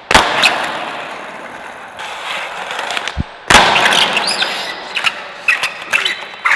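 Skateboard rolling on bare ball bearings instead of wheels: a harsh, gritty metal-on-pavement rolling noise, broken by two sharp smacks of the board hitting the ground, one at the start and one about three and a half seconds in, with smaller clacks near the end.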